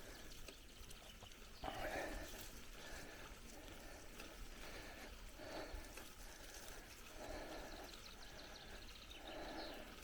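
Bicycle riding along a forest dirt track: faint tyre noise with irregular soft bumps and rattles as it rolls over the ground, the strongest about two seconds in.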